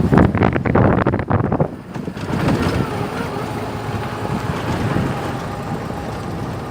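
Wind buffeting the microphone in strong gusts for about the first two seconds, then settling to a steadier, lighter rush.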